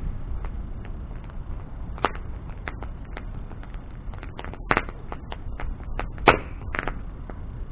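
Wood bonfire crackling with irregular snaps and pops over a low steady rumble. A few louder pops come about two, four and a half, and six seconds in.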